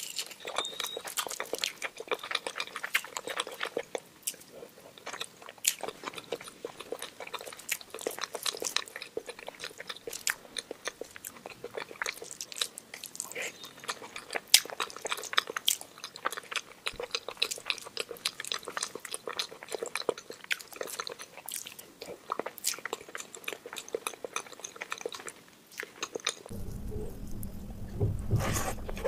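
Close-miked mouth sounds of someone eating rice with the fingers: many small wet clicks, lip smacks and chewing. Near the end a low steady rumble comes in under the eating sounds.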